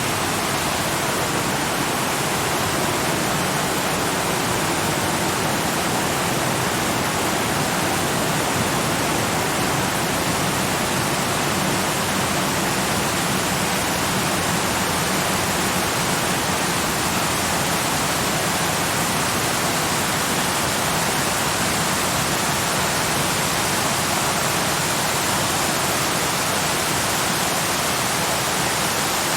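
Waterfall rushing: a steady, even sound of falling water that does not change.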